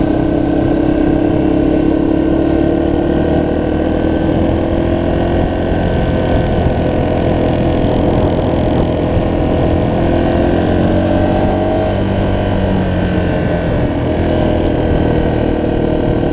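Dirt bike engine running while riding at a steady pace, its pitch drifting up and down a little as the throttle shifts, with a constant rush of wind and road noise.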